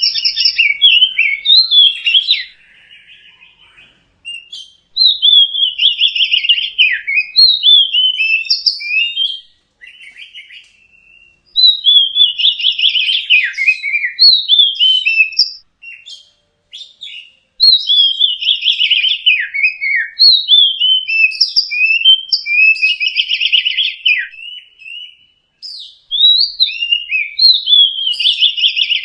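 Oriental magpie-robin (kacer) singing loud, varied phrases of clear whistles and chattering notes, in bursts of a few seconds with short pauses between them.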